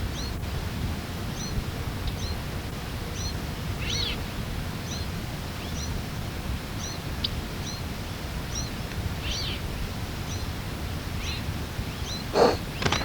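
A small bird calling over and over: short, high two-note calls about every 0.7 seconds, with two louder downward-sweeping calls mixed in. Near the end there is a loud thump, and a low rumble runs underneath.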